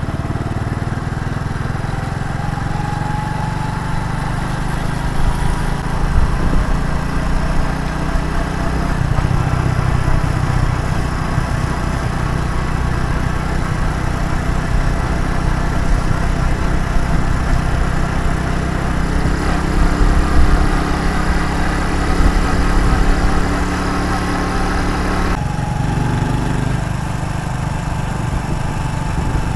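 Motorcycle engine running steadily while riding, with a continuous low rumble. The sound changes abruptly about 25 seconds in.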